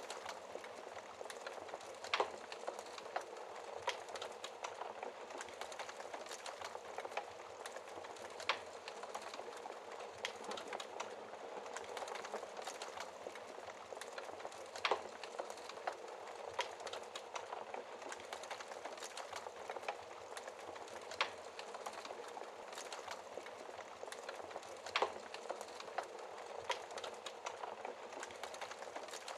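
Wood fire crackling in a fireplace: a steady low hiss of burning with frequent small pops and a few sharper snaps scattered irregularly through it.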